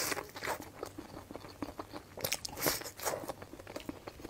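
A person biting into and chewing a cooked ear of sticky waxy corn close to the microphone: a run of small, irregular wet clicks and smacks of mouth and kernels.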